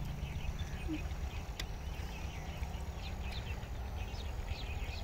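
Small birds chirping in quick short high notes, more often in the second half, over a steady low hum.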